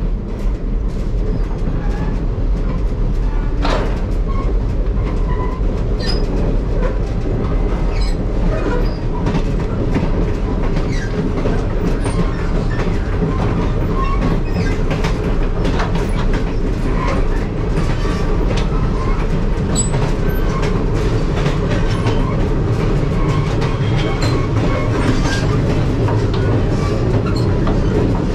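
Moving passenger train heard in the vestibule between two cars: a steady low rumble of wheels on track with frequent clicks and clatter, and short metallic squeaks as the steel floor plates rub against each other with the cars' motion.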